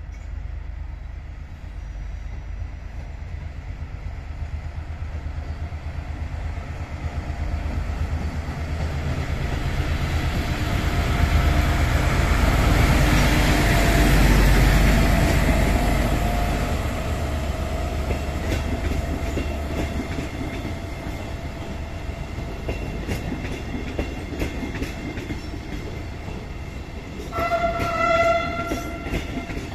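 A train passing through a station, its rumble and rush building to a peak about halfway and then slowly fading, with wheels clicking over rail joints as it recedes. Near the end a train horn sounds briefly.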